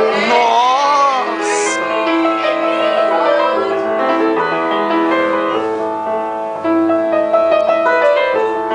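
Piano being played, with steady held notes and chords sounding throughout.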